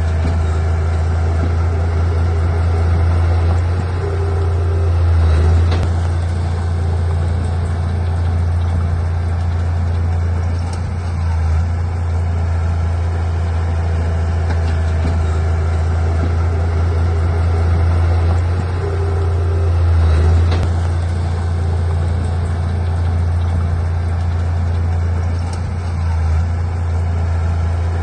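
Heavy diesel engine of earthmoving machinery running with a steady deep drone, swelling briefly in loudness twice, about 5 and 20 seconds in.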